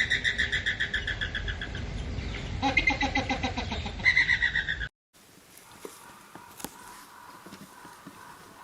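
An animal's high-pitched, rapidly pulsing calls, joined by a lower falling call about three seconds in. About five seconds in they cut off, leaving a much quieter outdoor background with scattered small clicks.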